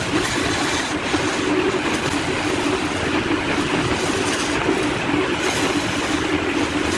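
Woodworking power tool running steadily: a dense rushing noise with a constant low hum under it.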